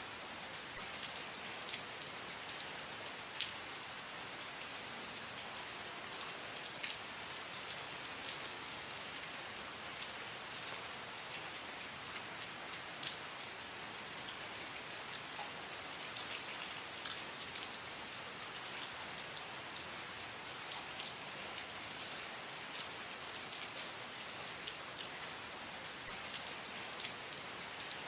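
Steady rain falling, a constant hiss with many individual drops pattering and ticking sharply on a hard surface.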